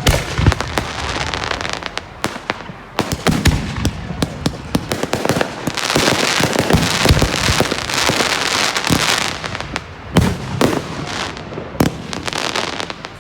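Display fireworks going off: a rapid, irregular run of sharp bangs, with a dense crackling hiss swelling through the middle of the stretch and then easing.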